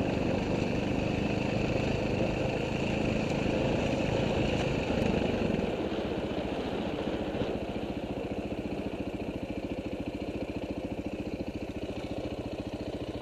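Dirt bike engine running while riding, then the throttle eases off about halfway through and it settles to a lower, steady putter as the bike slows.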